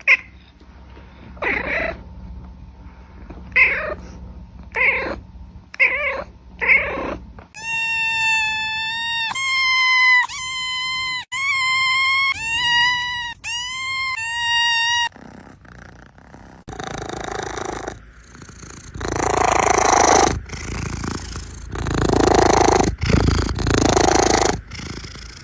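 A cat meowing: a run of short calls, then several long, clear meows, each lasting about a second, then rougher, hoarse calls in the last third.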